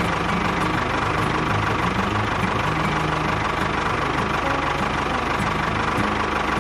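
A small engine or motor running steadily with an even, unbroken hum.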